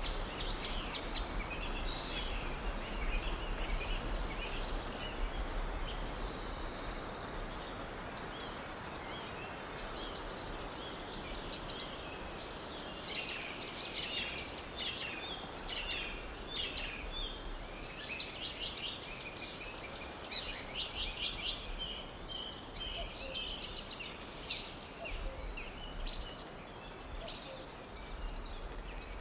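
Several birds chirping and trilling over a steady faint background hiss, with a few louder sharp calls about a third of the way in.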